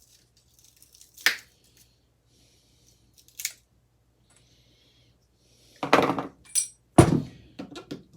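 Metal clicks and clatter of hand tools working on a ceiling fan's metal parts: two sharp isolated clicks, then a burst of clattering and a loud knock near the end.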